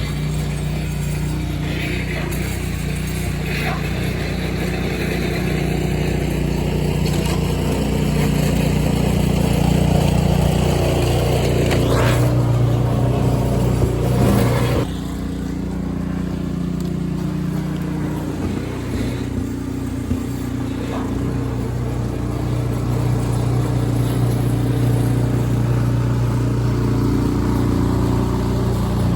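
An engine running steadily, its level dropping slightly about halfway through.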